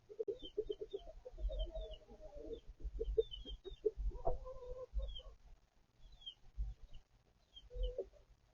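Chickens clucking, a quick run of short clucks followed by a longer drawn-out call about four seconds in and another near the end, with the high thin peeping of chicks throughout and a few low thumps.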